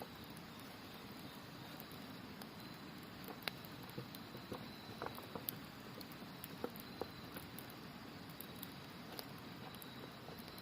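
Faint wood campfire crackling, with scattered sharp pops and snaps, over the steady rush of a river. A thin high insect trill comes and goes in the background.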